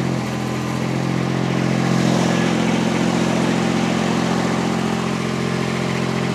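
Mini skid steer's engine running steadily while it holds a raised pallet of concrete blocks at max lift, swelling slightly about two seconds in.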